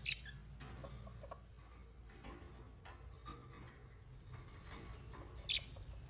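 Small caged birds giving brief high chirps, one right at the start and a louder one near the end, over a faint low hum.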